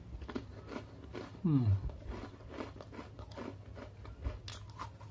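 Chewing and crunching of a crisp Oreo sandwich cookie in the mouth, in short irregular crunches. About one and a half seconds in comes a brief falling hum, the loudest sound.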